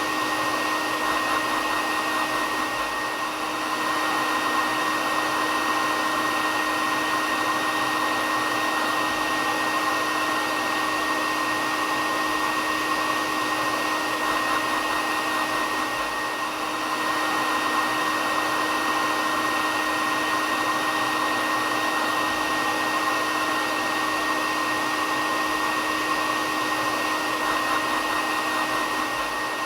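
Hair dryer running steadily: an even rushing blow of air with a steady motor hum and a high whine, dipping slightly in loudness twice.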